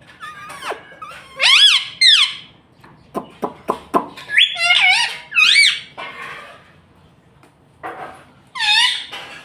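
Pet rose-ringed (ring-necked) parakeet calling: bunches of short, high-pitched squawks and chirps that rise and fall in pitch, with a run of four quick clicks about three seconds in.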